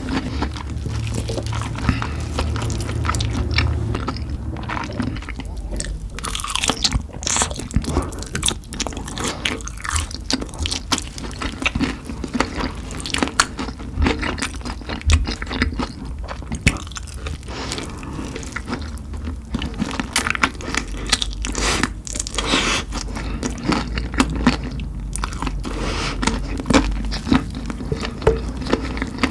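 Close-up crunching, biting and chewing of spicy chicken: a continuous run of irregular crisp crackles and wet mouth sounds.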